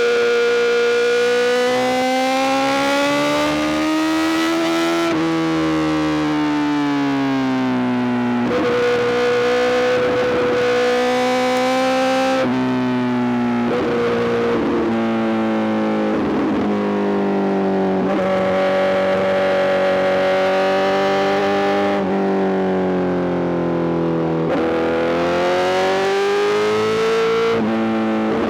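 Honda CBR1000RR-R SP inline-four engine running at sustained revs through an Arrow GP full exhaust. Its pitch rises and falls slowly with the throttle and steps sharply several times as the rider changes gear.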